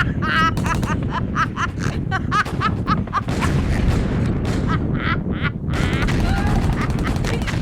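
Many short, squawky calls in quick succession over a loud, steady low rumble.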